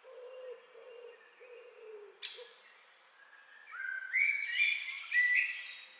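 Birdsong: low wavering notes during the first two seconds, a sharp click a little after two seconds, then a louder songbird phrase of short, stepped notes in the last two seconds.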